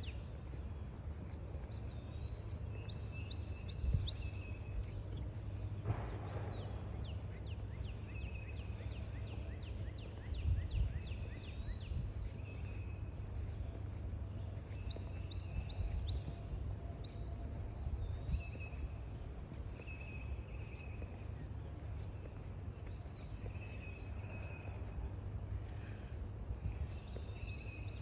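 Several birds chirping and singing in short, repeated calls throughout. A steady low rumble with a few thumps runs underneath.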